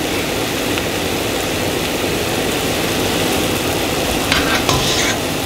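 Mushrooms, onions and tomatoes sizzling steadily in cast iron pans on high heat, the mushrooms giving off their water. About four and a half seconds in there is a brief flurry of sharper crackles.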